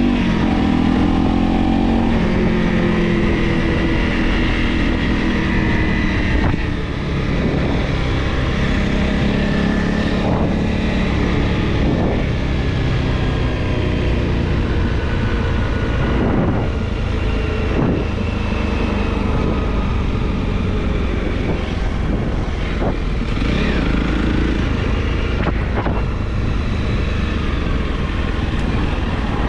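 Honda CRF Rally motorcycle's single-cylinder engine running under way, its pitch rising and falling with the throttle, with a few sharp knocks along the way.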